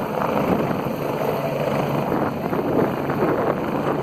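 Helicopter rotor and engine noise, a steady whooshing hum, with wind on the microphone.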